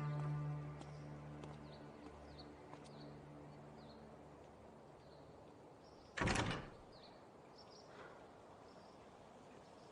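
Background music fades out in the first two seconds, leaving quiet ambience with a few faint bird chirps. About six seconds in, a door moves with a brief loud rush of noise.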